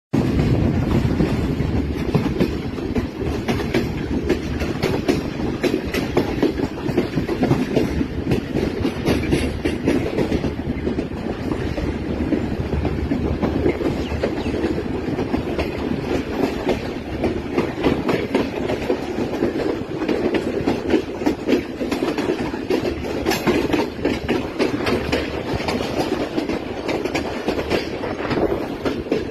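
A train running on the rails: a steady rumble of wheels, with a rapid clatter of clicks as they pass over rail joints, throughout.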